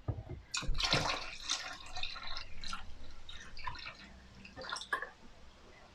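Liquid drain cleaner poured from a bottle into the standing water in a dishwasher that won't drain, splashing and dripping in uneven spurts that die away about five seconds in.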